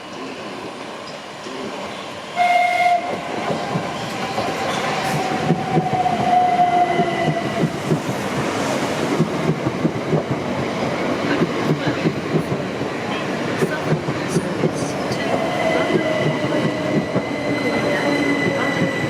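A train passing through a station, its wheels clattering over the rail joints. A couple of seconds in, a loud tone starts suddenly and falls slowly in pitch over several seconds, and a similar falling tone comes again near the end.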